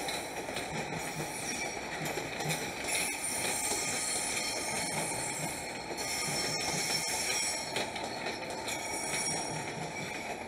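Trains moving slowly through a rail yard: a steady rumble of wheels on rail, with high-pitched wheel squeal coming and going and a few sharp clicks of wheels passing over rail joints and points.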